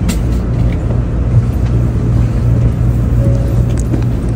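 Shinkansen bullet train's cabin noise: a steady low rumble of the train running along the track, heard inside the carriage.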